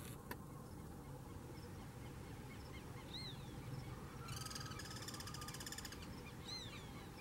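Faint wild bird calls: a couple of short arched chirps, and about halfway through a fast, dry rattle lasting under two seconds, over a low steady rumble.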